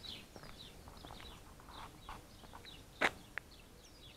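Small birds chirping repeatedly with short, quick calls, with a sharp click about three seconds in.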